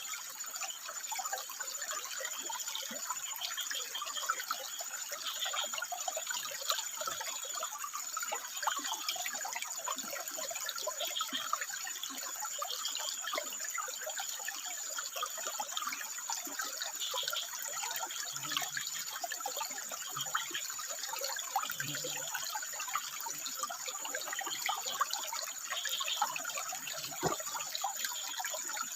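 Water flowing and splashing steadily, with short frog calls repeating every few seconds over it, and a thin steady high tone throughout.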